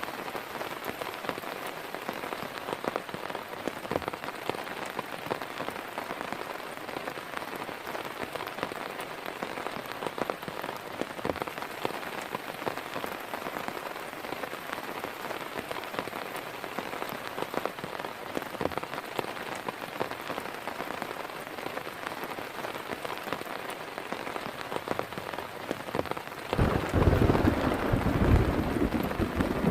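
Steady heavy rain, with many separate drops tapping close by. Near the end a sudden low rumble of thunder comes in and stays loud.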